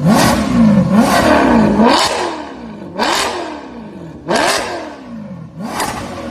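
Car engine with a loud exhaust revved in about six quick throttle blips, each rising sharply in pitch and falling away, coming further apart and quieter toward the end.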